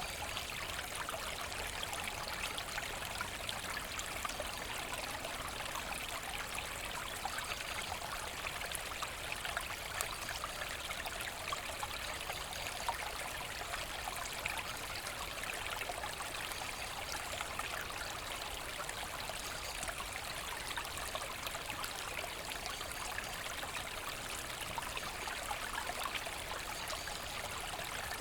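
A forest brook babbling and trickling steadily over stones, an even rush of water with fine splashes.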